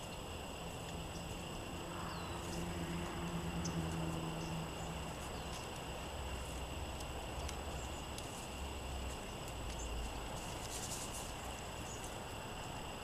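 Low rumble of gusting wind on the microphone, with a few short, faint songbird chirps and a steady high-pitched ringing. A low hum fades out about five seconds in, and a short hiss comes near the end.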